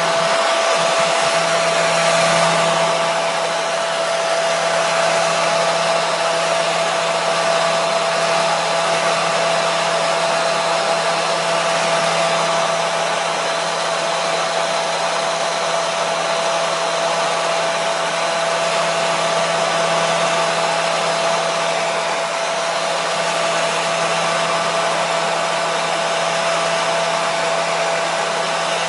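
Hair dryer (blow dryer) running continuously: a steady rush of air with a constant motor whine and a low hum, unchanging in level.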